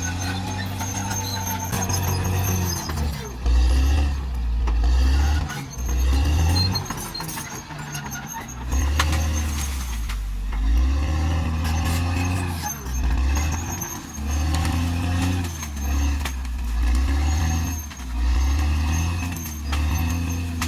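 Diesel engine of a Caterpillar D6R XL bulldozer working, its revs swelling and dropping again and again, about every two seconds.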